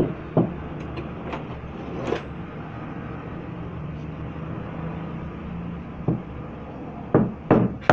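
Air impact wrench body, turned upside down, knocked against a wooden block to drive out its internal part. There are a few separate knocks, then three in quick succession near the end, over a steady low hum.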